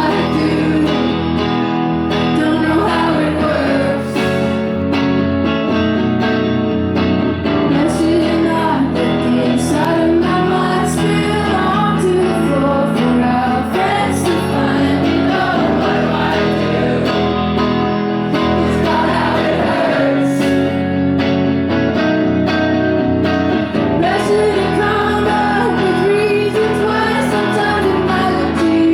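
Live music: a woman singing to her own guitar accompaniment.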